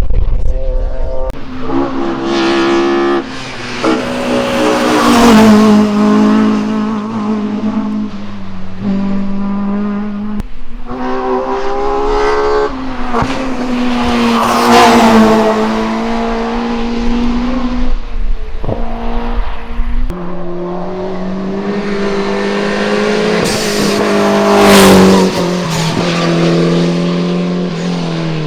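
Hill-climb racing cars passing one after another at full throttle, engines revving high and dropping as they change gear. Each car swells to a peak as it goes by, about three passes roughly ten seconds apart.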